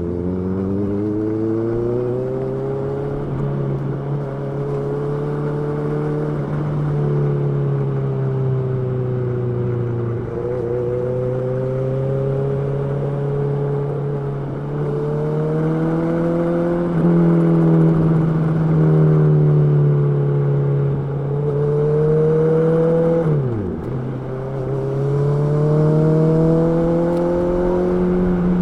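Honda CB650R's inline-four engine running under way. Its pitch climbs steadily at the start, then holds a fairly even note with small rises and falls in throttle. About 23 seconds in the pitch drops sharply for a moment and comes back.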